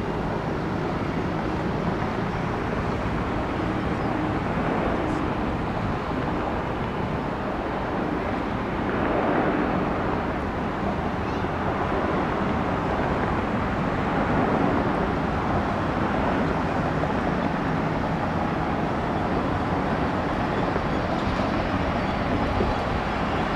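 Jet airliner engine noise, a steady rumble that swells slightly about nine seconds in and again around fourteen seconds.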